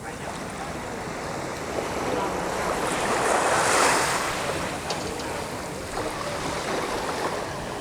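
Surf washing onto a sandy beach, one wave swelling loudest a little before the middle and then easing off, with some wind buffeting the microphone.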